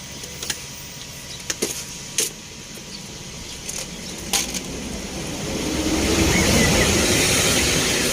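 A road vehicle passing by: its noise swells over a few seconds, peaks, and begins to fade near the end. Before it come several sharp clicks and taps, and a bird chirps briefly as it passes.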